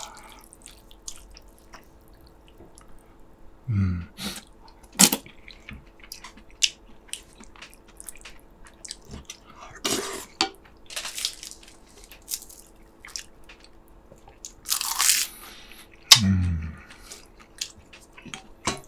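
Close-up eating sounds of a man chewing kimchi-braised pork ribs and rice: scattered wet smacks, clicks and crunches from the mouth and utensils, with a short low hum of enjoyment twice.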